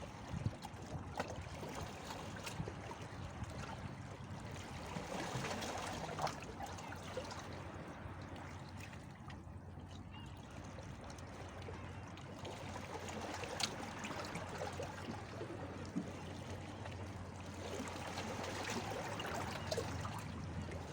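Sea water lapping and trickling, swelling louder twice and easing back between, with small splashes and clicks.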